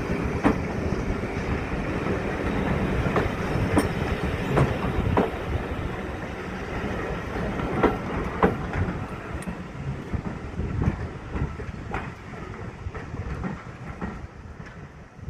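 Steam-hauled heritage train rolling on the track, its wheels clicking irregularly over rail joints above a steady rumble that gradually fades as the train moves away.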